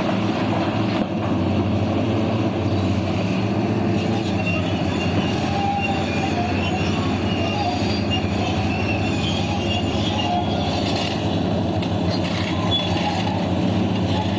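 Heavy diesel mining machinery running steadily with a constant low drone, with intermittent high metallic squeals over it.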